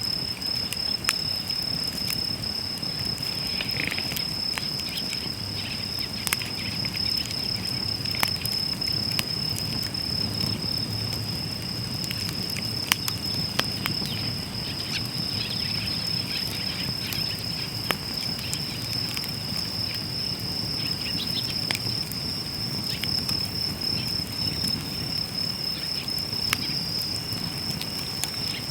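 Wood fire crackling in a fire pit, with sharp pops every few seconds over a low, even rustle of burning. A steady high insect trill runs on without a break.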